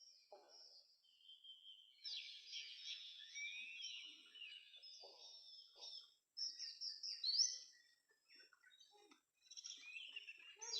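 Oriental magpie-robin (kacer) singing: a varied run of whistles and chirps with quick rising and falling notes, starting up about two seconds in.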